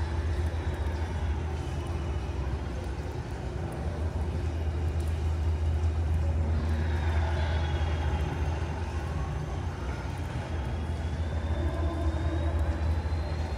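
Steady hiss of heavy rain over a constant low rumble, with faint thin high tones drifting slowly down and back up.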